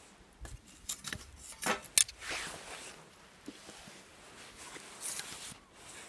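Scattered sharp clicks and short scraping sounds from small objects being handled, the loudest a sharp click about two seconds in.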